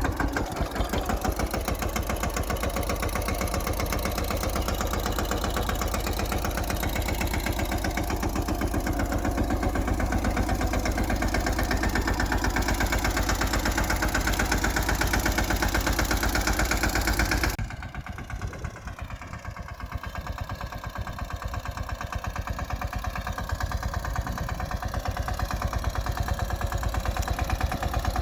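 Yuvraj 215 mini tractor's single-cylinder diesel engine running with a rapid, even beat. About two-thirds of the way in it drops suddenly quieter, then gradually builds back up.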